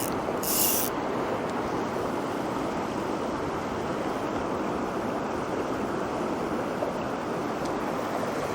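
Rushing mountain stream water, a steady even wash, with a brief high hiss in the first second.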